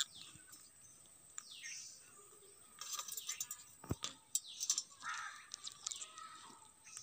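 Pet parrot making short chirps and falling whistles several times, with a single sharp click about four seconds in.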